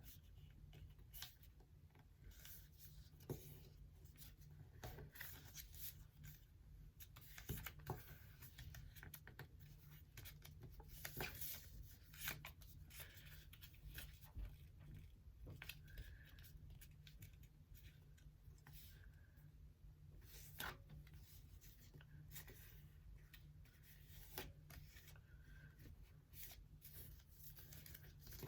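Faint rustling and crinkling of a sheet of paper being handled and folded, with scattered short crackles as creases are pressed in.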